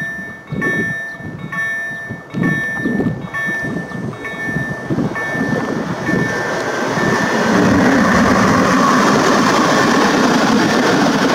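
Level-crossing warning signal sending out repeated electronic beeps, roughly every two thirds of a second, fading out after about five seconds. Then a freight train of open coal wagons behind a Pesa Gama 111Ed electric locomotive passes, the steady rumble of wheels on rail growing loud after about seven seconds.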